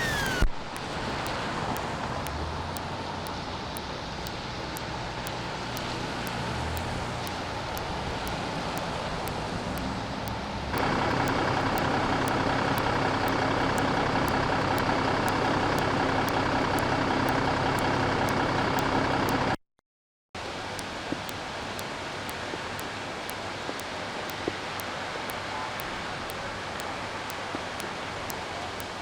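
Steady vehicle engine and traffic noise, with a brief falling tone at the very start. About eleven seconds in, a louder, steadier engine hum takes over. It cuts off abruptly near twenty seconds and comes back at a lower level.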